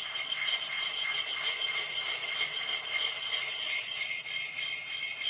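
A wet puck stone being rubbed in small circles against another sharpening stone, giving a faint scraping. Over it runs a constant high, shimmering ringing.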